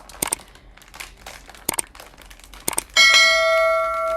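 A few short crinkles and clicks of snack packaging being handled. About three seconds in, a loud bell-like chime rings out, steady with many overtones, and cuts off abruptly.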